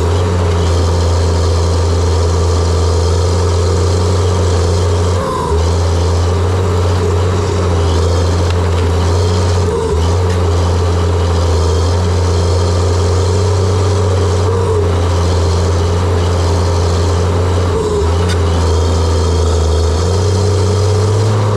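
John Deere 700J-II crawler dozer's diesel engine running steadily with a deep drone. It dips briefly three times and rises slightly in pitch near the end.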